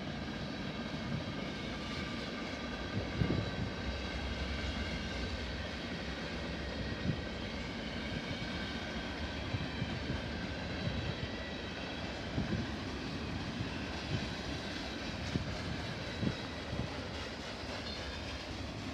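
Freight train rolling past: a steady rumble with several faint steady tones higher up and scattered sharp clicks and knocks from the wheels and cars.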